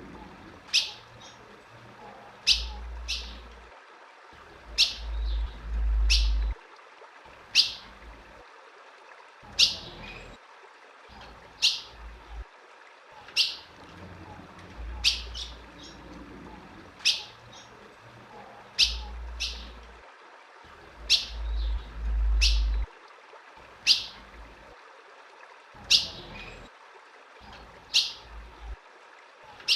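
Female ultramarine grosbeak (azulão) giving short, sharp chirp call notes, repeated about every one to two seconds and sometimes in pairs. Low rumbles come and go beneath the calls.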